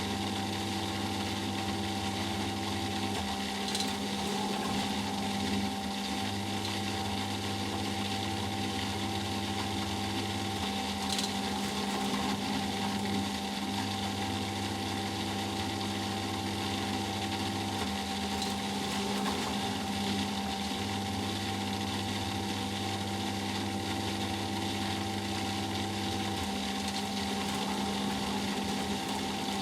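Eudora Sparmeister 702 Classic washing machine in its final spin, the motor and drum running at a steady pitch. A low hum cuts in and out every few seconds.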